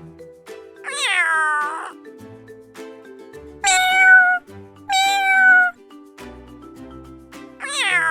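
Cat meowing: four high-pitched meows, each under a second, some sliding down in pitch, over soft background music.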